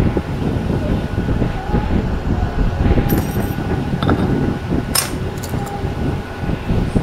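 Steady low rumble with a few light metallic clinks about three, four and five seconds in, as of small metal parts or tools being handled.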